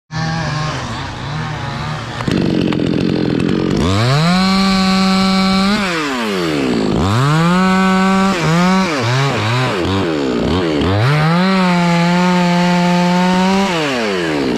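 Two-stroke chainsaw engine running at low speed, then revved up to full throttle and held there three times, with quick throttle blips in between before it drops back.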